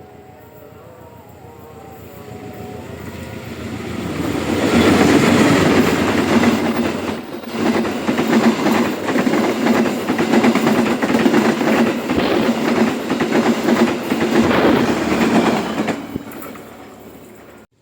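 A train passing close by: the sound builds over a few seconds, then a steady clickety-clack of wheels over rail joints runs for about eleven seconds before fading and cutting off near the end.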